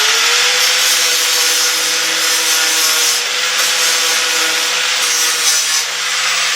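Angle grinder with a flap wheel running at full speed, sanding rust off a steel car sill back to bare metal: a steady whine under loud, harsh grinding noise.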